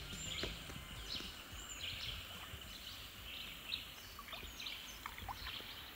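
Scattered bird chirps and short calls over a faint, low steady rumble.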